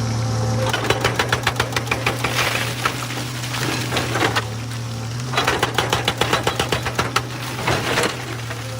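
Excavator diesel engine running steadily, with two spells of rapid metallic knocking, about six knocks a second, each lasting around two seconds.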